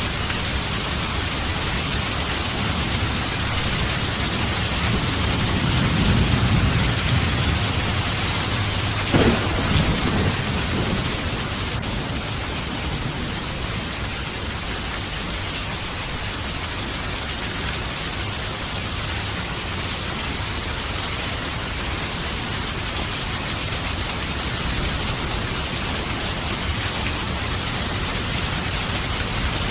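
Steady heavy rain with thunder: a low rumble swells about five seconds in, then a sharp crack of thunder about nine seconds in rolls off under the constant rain.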